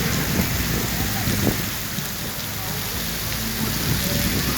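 Heavy rain pouring down steadily on a city street, a downpour, with a low steady hum underneath.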